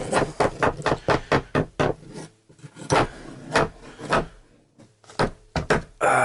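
Particle board subfloor panel being worked into place: a quick run of wooden scrapes and knocks, then a few louder, more widely spaced knocks.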